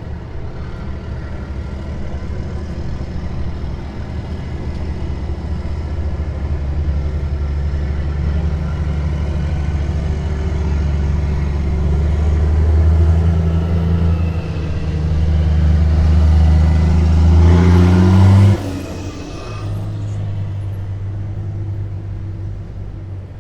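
Heavy military vehicle engine growing louder as it approaches, its deep note rising a little in pitch. About eighteen seconds in, the engine note drops abruptly with a short rushing whoosh, and a lower, steady engine sound carries on.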